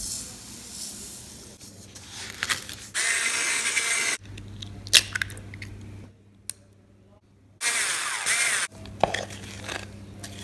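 Kitchen baking sounds in quick cuts: clinks, scrapes and knocks, with two bursts of loud steady noise, one about three seconds in and one near the end.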